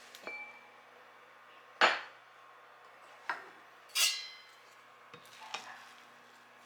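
Dishes and utensils clinking and knocking as food is prepared: about six separate knocks, the loudest about two seconds in and a ringing clink about four seconds in, over a faint steady hum.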